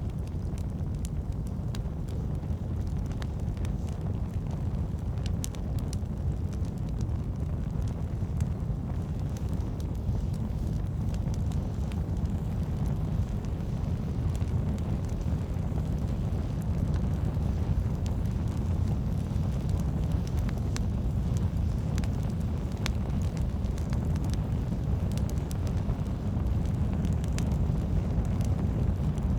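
Campfire burning: a steady low rumble of flames, with sharp crackles and pops from the burning logs scattered irregularly throughout.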